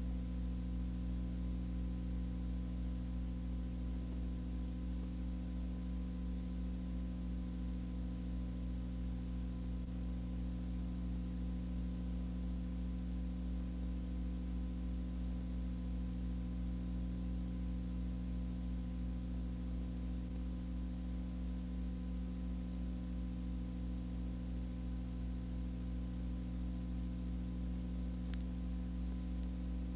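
Steady low hum made of several fixed tones, over an even background hiss, unchanging throughout.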